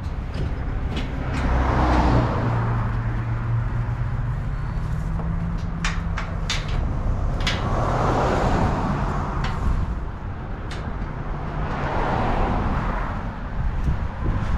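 Road traffic: a vehicle engine runs steadily while three vehicles whoosh past, swelling and fading. A few sharp clicks come midway.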